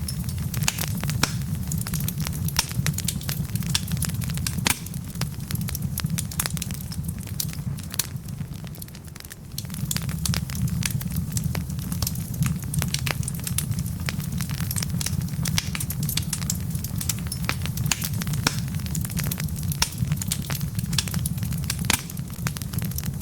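Wood logs burning with many sharp crackles and pops over a steady low rumble of flame. About eight seconds in the low rumble briefly drops away for a second or so, then returns.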